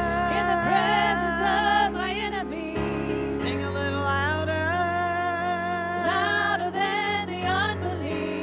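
Worship song in a church service: a singer holding long, wavering notes over steady instrumental accompaniment.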